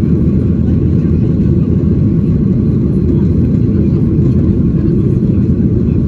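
Cabin noise inside a Boeing 737-800 in flight: a steady, loud, low rush of its CFM56 jet engines and the airflow over the fuselage, heard from a window seat.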